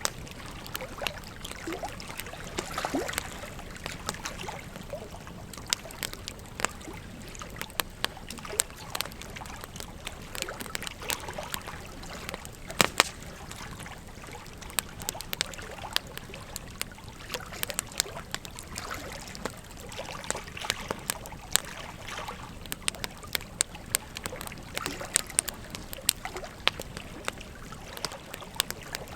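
Wood fire crackling, with frequent sharp irregular pops and snaps, over the steady rushing of a river.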